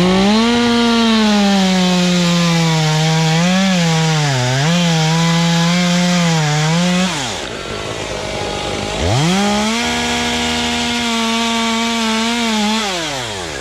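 Two-stroke chainsaw cutting butternut wood in two bursts. It revs up to full throttle and dips under load as it bites, drops back to idle about halfway through, then revs up again, holds steady and falls back to idle near the end.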